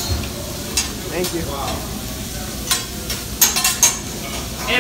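Shrimp, chicken and fried rice sizzling on a hot hibachi griddle, with a metal spatula clacking against the steel surface as the food is turned. A quick run of sharp clacks comes about three and a half seconds in.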